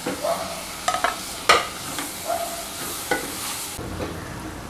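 Chopped tomatoes being stirred into a sizzling onion and spice masala in a kadai with a wooden spatula: frying sizzle with scraping and sharp knocks of the spatula against the pan, the loudest about one and a half seconds in. The sizzle cuts off abruptly shortly before the end.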